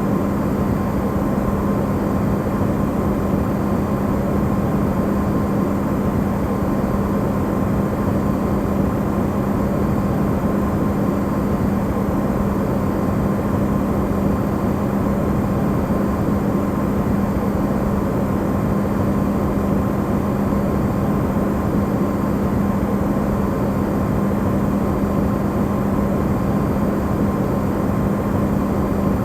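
Electrolux refrigerator running, recorded amplified: a steady, unchanging hum with a strong low tone over an even rushing noise.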